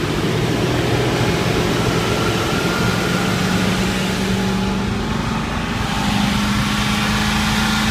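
Land Rover Defender 90's petrol engine running fast just after a cold start on ether, its revs slowly climbing because the throttle cable is stuck.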